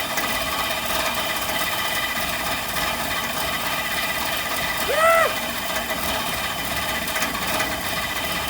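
The Frandee Sno Shu Model E snowcat's engine runs steadily on its first cold start after restoration, choke fully closed, with loose, unsecured components rattling. About five seconds in there is a short rising-and-falling whoop of a voice.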